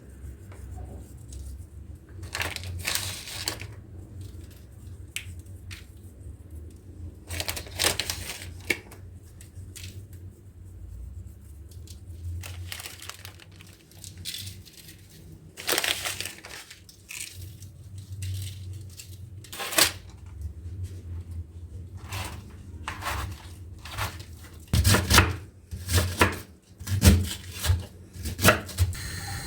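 Kitchen food-preparation handling sounds: scattered crinkling, scraping and knocks, coming thicker near the end, over a low steady hum.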